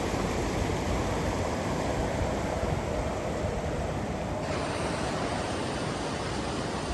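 Steady rush of flowing river water, an even hiss with a low rumble.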